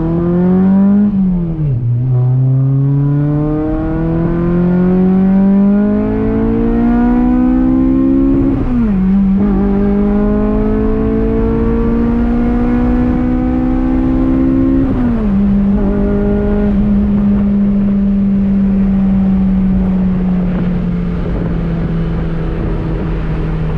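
2008 Acura TSX's 2.4-litre four-cylinder engine pulling up through the gears: revs rise and drop sharply at three upshifts, about 1.5, 9 and 15 seconds in, then hold nearly steady at cruise.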